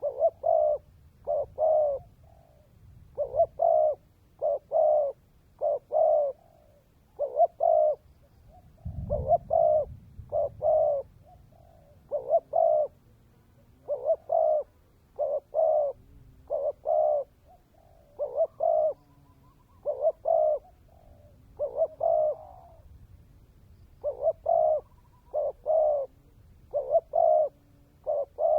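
Spotted dove cooing: short, clear notes in groups of two to four, repeated phrase after phrase with short pauses between. A brief low thump comes about nine seconds in.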